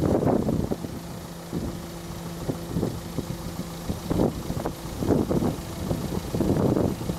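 Small hatchback's engine idling with a steady low hum, while irregular gusts of wind buffet the microphone.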